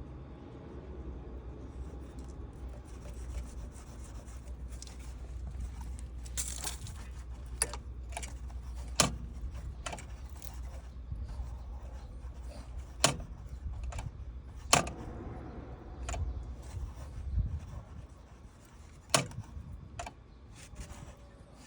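Scattered sharp metallic clinks and knocks, about eight or nine spread irregularly, with some rubbing and scraping between them, over a steady low hum.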